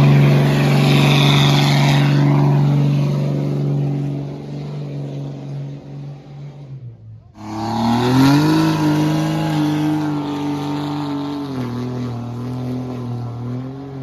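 Truck engine held at high revs, then fading. About seven seconds in, a second truck engine revs up, holds a steady high note and drops back a little near the end.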